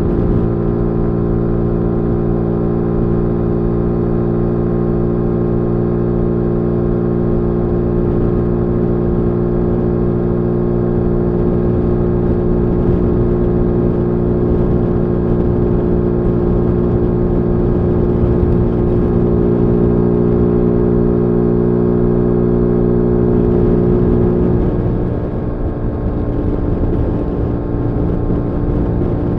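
2022 Zontes G1 125's single-cylinder four-stroke engine running at a steady speed while riding. About 25 seconds in it gets quieter and its note drops a little as the throttle eases off.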